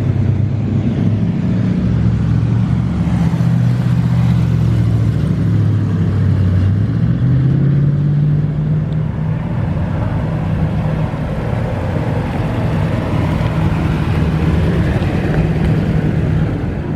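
Car engine rumbling at low revs through its exhaust, steady and deep, its pitch stepping up a little about seven seconds in as it picks up speed.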